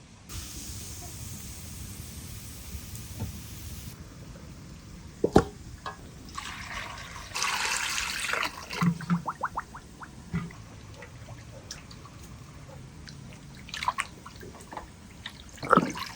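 Liquid being poured and trickling, with a louder pour in the middle and a few sharp knocks and clatters.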